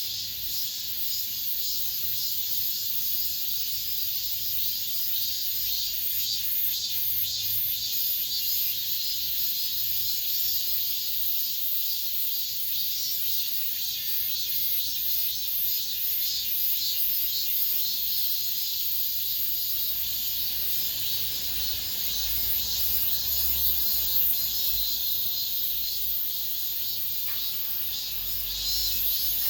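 Cicadas singing in a dense chorus, a continuous shrill buzzing made of fast pulses. A low rumble joins in during the second half.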